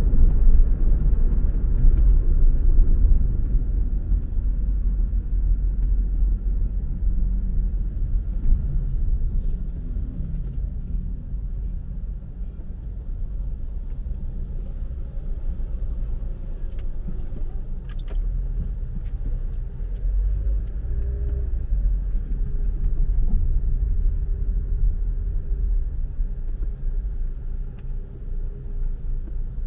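Car driving on a road: low, steady rumble of tyres and engine.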